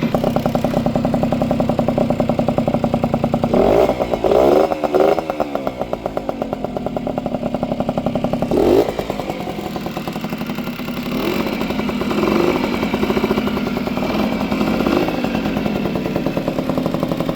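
Honda MB5's small two-stroke single-cylinder engine idling, its revs briefly rising and falling about four seconds in and again near nine seconds. It runs evenly now that its clogged pilot jet has been cleared.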